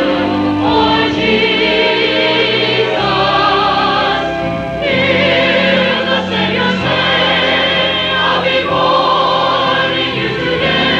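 Church chancel choir singing in parts, with vibrato on held notes.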